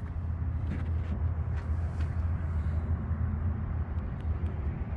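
Cadillac CT5-V's twin-turbo V6 idling steadily with a low hum, with a couple of light clicks about a second in.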